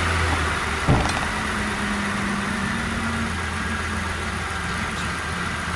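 2004 Ford Explorer engine idling steadily, with a brief thump about a second in.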